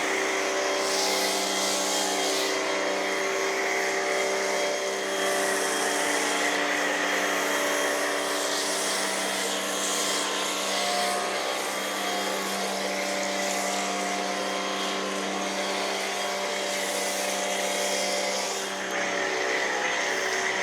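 Pressure washer running with a steady motor hum, feeding a foamer that sprays detergent foam, its hiss swelling and fading several times.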